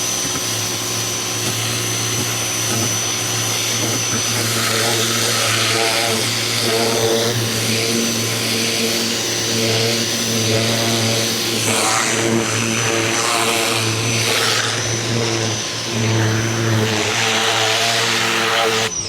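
Ryobi 2000 PSI electric pressure washer running, its motor and pump humming steadily under the hiss of the high-pressure water spray. It cuts off suddenly at the very end.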